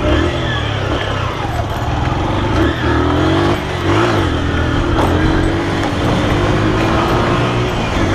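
Honda CG 125's single-cylinder four-stroke engine running under way. Its pitch dips briefly twice, a little under three and four seconds in, then holds fairly steady.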